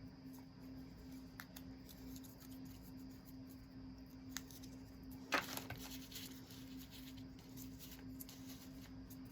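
Faint handling of paper craft materials: a few small ticks and one short crisp paper sound about five seconds in, over a steady low hum.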